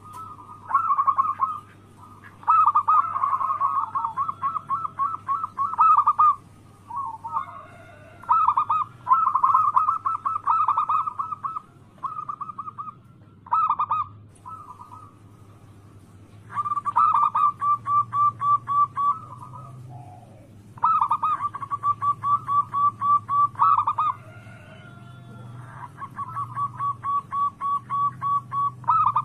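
Zebra doves (perkutut) cooing: bouts of rapid, evenly spaced staccato coo notes, about four a second, with a second, fainter bird's notes overlapping.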